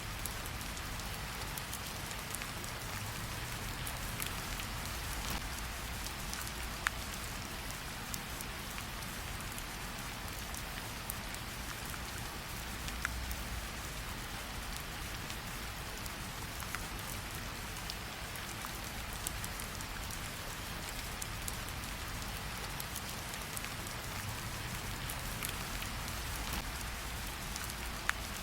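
Steady heavy rain with a low rumble beneath it, mixed with a crackling wood fire whose pops come as scattered sharp clicks.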